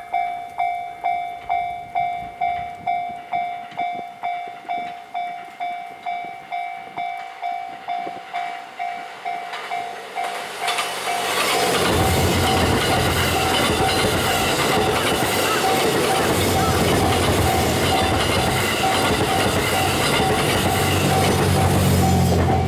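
Level-crossing warning bell dinging steadily about twice a second. About eleven seconds in, the JR West Series 87 Twilight Express Mizukaze diesel train arrives and passes with loud wheel-on-rail noise and a deep rumble that is strongest near the end, the crossing bell still ringing under it.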